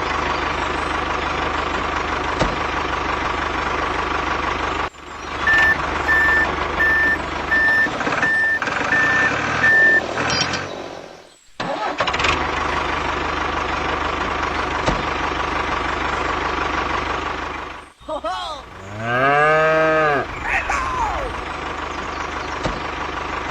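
Vehicle engine running steadily, in several cut-together stretches. A repeated beep like a reversing alarm sounds about five to ten seconds in, and a voice calls out with a rising then falling pitch near the end.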